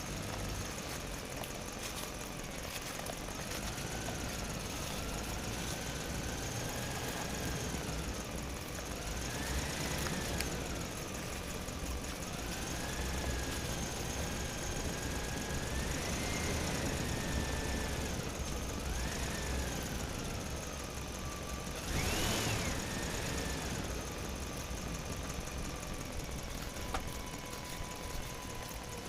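Toy vehicle's small motor whining, its pitch rising and falling over and over as it speeds up and slows down, with one louder, higher rise about three-quarters of the way through.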